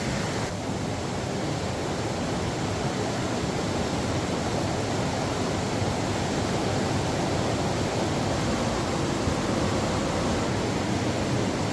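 Steady rushing water: a dense, even hiss with no breaks.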